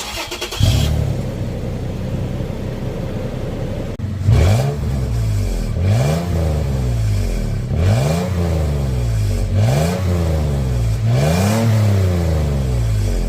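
Toyota FJ Cruiser's 4.0-litre V6 heard through its exhaust: it starts up about half a second in and idles steadily, then is revved in five quick blips about two seconds apart, each rising sharply and falling back to idle.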